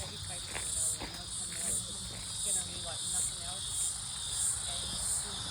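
Outdoor insect chorus: a high, pulsing buzz that swells and fades about three times every two seconds.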